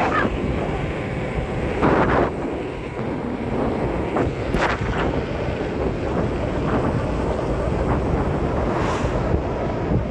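Wind buffeting the microphone during a bike ride, a steady rumble with a few short louder noises about two seconds in and again near five seconds.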